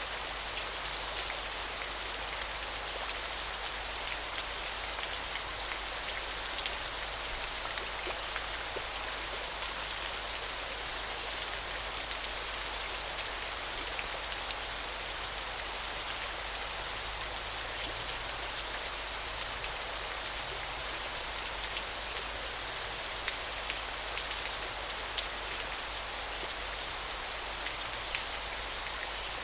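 River water flowing, a steady rushing hiss. A thin high-pitched buzz sounds over it in three stretches of about two seconds each in the first ten seconds, and a louder, fuller high buzz comes in for the last six seconds or so.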